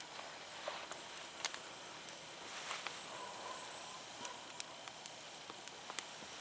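Wood fire crackling, with sharp irregular pops and snaps over a faint steady hiss.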